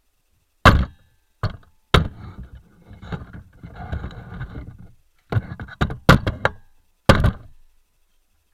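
A series of sharp knocks and thuds: three near the start, then a rustling, scraping stretch of about three seconds, then a quicker run of four or five knocks.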